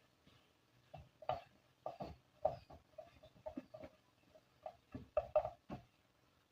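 Kitchen utensils clicking and knocking against a bowl or dish in food preparation: a dozen or more short, irregular taps, bunched more closely near the end.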